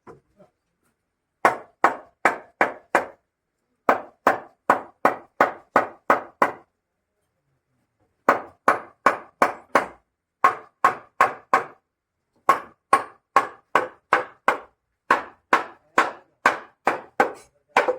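Hammer striking wood in runs of quick, even blows, about three a second, with short pauses between the runs.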